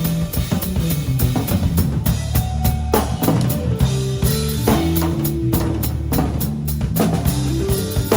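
A band playing a tune together: a drum kit keeps a steady beat with kick and snare under a moving bass line, with guitar notes held above.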